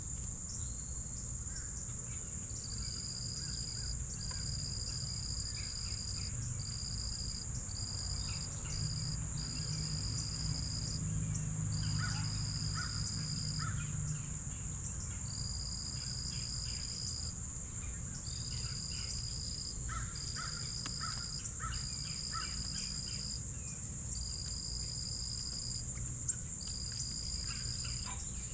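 Insects calling outdoors: one high, continuous trill, with a second insect calling in repeated pulses of a second or two with short gaps. A few brief bird calls come in around the middle and again about two-thirds of the way through, over a low background rumble.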